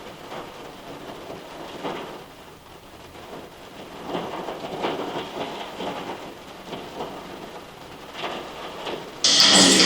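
Steady rain falling. Loud music cuts in suddenly near the end.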